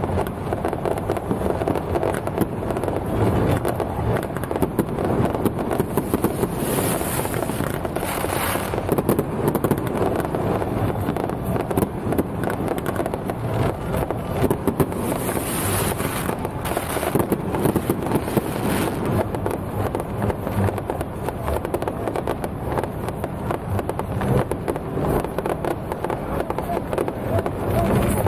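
Fireworks going off in a dense, continuous crackle, with a couple of brief louder hissing spells.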